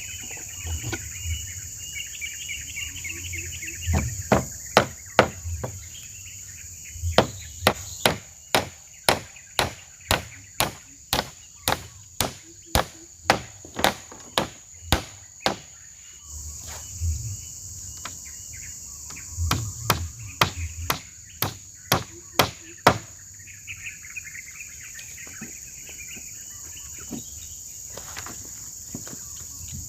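Hammer blows on wood, a few at first, then a steady run of about two a second, then another short group, typical of nailing roof boards. Insects drone steadily in the background, and birds chirp in the pauses.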